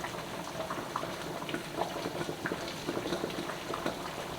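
Chicken soup in a beer and tomato broth bubbling at a boil in a large pot: a steady run of small, irregular pops and blips.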